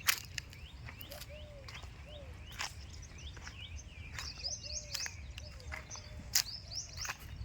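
Birds chirping in many short, quickly repeated calls, with softer lower calls mixed in. Several sharp clicks stand out over the calls, the loudest just after the start and about six seconds in.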